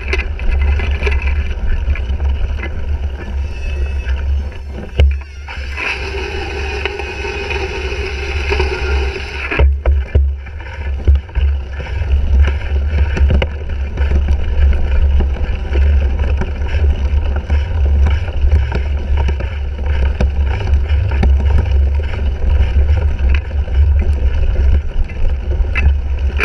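Wind buffeting a handlebar-mounted action camera's microphone as a cyclocross bike is raced, with frequent knocks and rattles from the bike over rough ground. A stretch of louder hiss comes between about six and ten seconds in.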